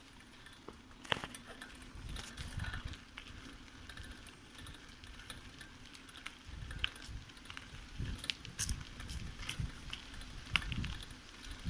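Bicycle rolling over a forest path: scattered clicks and crackles under the tyres, with irregular low rumbling.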